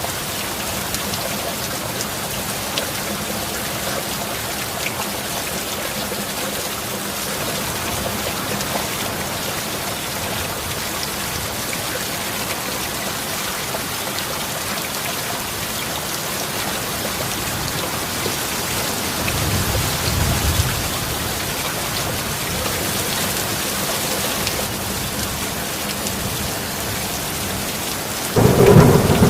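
Steady heavy rain, with a low rumble of thunder about two-thirds of the way in and a loud clap of thunder breaking near the end.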